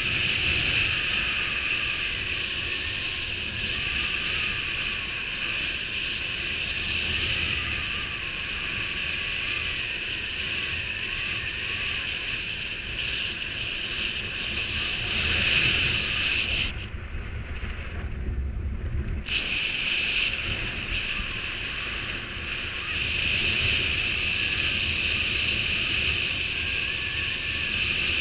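Wind rushing over the microphone in flight under a paraglider mini wing: a steady hiss with gusty low buffeting. About two-thirds of the way through, the hiss drops away for a couple of seconds while the low rumble swells, then the hiss returns.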